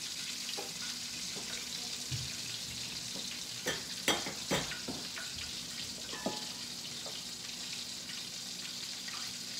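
Chicken frying in hot oil in a wok, a steady sizzle. A few sharp clinks come in a cluster around four seconds in and once more near six seconds.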